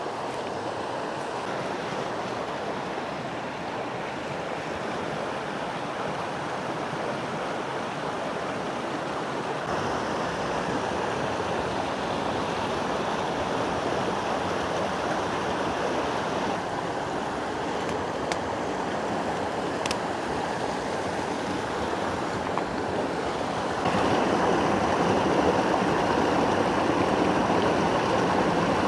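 Small mountain creek running over rocks, a steady rush of flowing water that steps up suddenly in level near the end.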